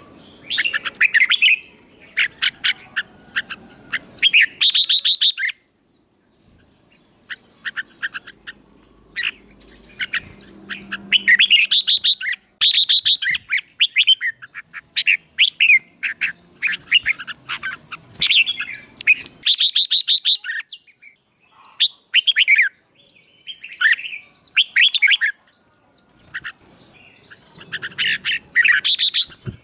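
Songbirds singing in short, loud bursts of rapid chattering notes, repeated over and over, with a brief pause about six seconds in. The singing is from birds being trained for song contests and stirred into full competitive song.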